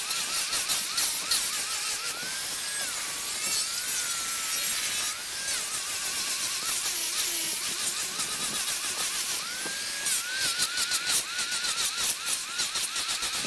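Small high-speed power tool working wood: its motor whine wavers rapidly and sags in pitch as it bites, then climbs back, over a gritty hiss of cutting.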